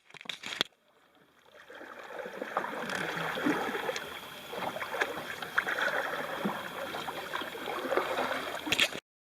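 Paddle strokes and water splashing and lapping around a paddled boat on a river, with a few small knocks; the sound fades in after a brief gap and cuts off suddenly near the end.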